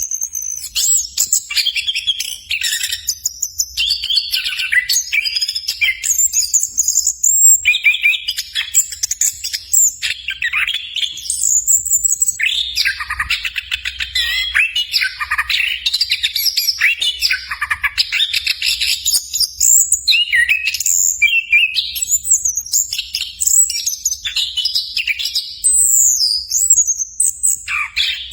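Chestnut-capped thrush (anis kembang) singing a long, fast, varied song of high whistles, trills and chattering phrases, broken by short pauses.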